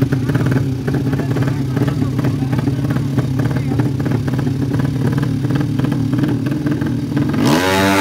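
Drag-race motorcycle engines running at a steady, rough, pulsing idle; near the end one revs hard, its pitch rising sharply as it accelerates.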